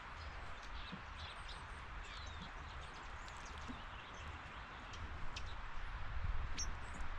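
Small birds chirping with many short, high calls and quick pitch glides, over a steady background hiss and a low rumble that grows louder near the end.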